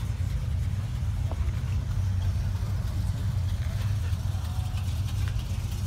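Car engines idling in a slow-moving line of cars: a steady low rumble.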